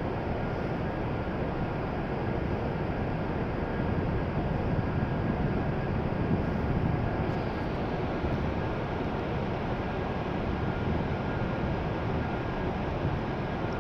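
Steady mechanical hum and rumble of E7 series Shinkansen trains standing at the platform, their air-conditioning and auxiliary equipment running, with faint steady tones in the hum. It grows a little louder around the middle.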